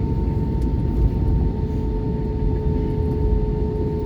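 Cabin noise of an Airbus A320-232 taxiing at idle power: a steady low rumble with a constant hum.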